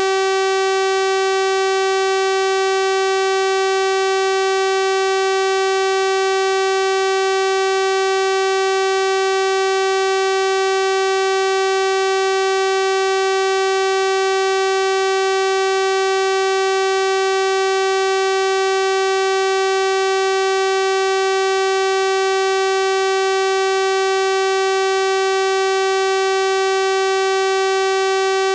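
Synthesized 384 Hz sawtooth-wave tone, held steady and unchanging, a bright buzzy pitch rich in harmonics.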